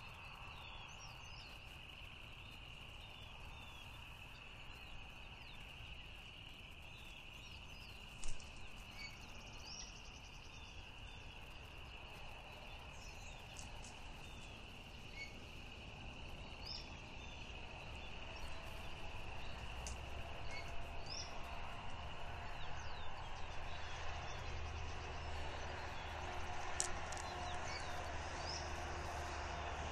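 Outdoor ambience of small birds chirping over a steady high-pitched background hum, with a single sharp knock about eight seconds in. In the second half a low engine drone slowly rises.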